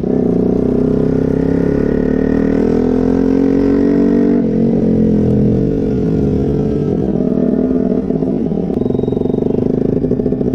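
KTM 125's single-cylinder engine through an aftermarket Akrapovic exhaust, revving gently up for the first few seconds and easing off. It then runs on at low revs with a fast, pulsing exhaust note.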